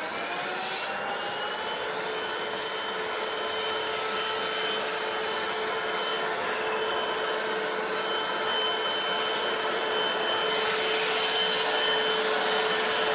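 Hoover CRUISE+ cordless stick vacuum's motor spinning up with a rising whine over the first two seconds, then running steadily with a high whine over the rush of suction air.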